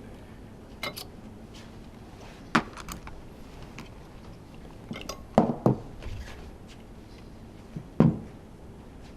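Metal hand tools and parts of a Honda V10 Formula One engine clinking and knocking as it is taken apart. Scattered sharp clinks, the loudest a pair about five and a half seconds in and one near the end.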